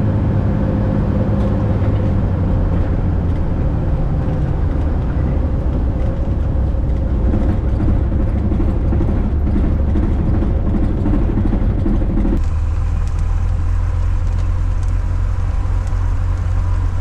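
Single-engine Cessna's piston engine and propeller droning steadily at cruise power. About twelve seconds in the sound changes abruptly, losing its rougher upper part while the deep drone carries on.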